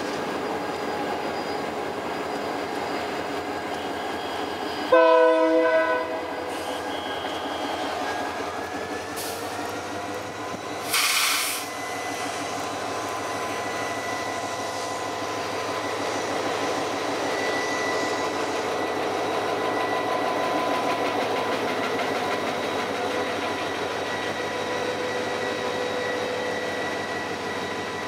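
Diesel-hauled passenger train running steadily, its horn sounding once for about a second about five seconds in, the loudest moment. A short hiss follows about eleven seconds in.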